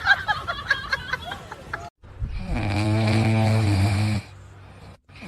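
A sleeping pet snoring loudly: one long, low snore of about two seconds starting about two seconds in, and another beginning at the very end. Before it, after a cut, there is a brief stretch of short, chirpy sounds from another clip.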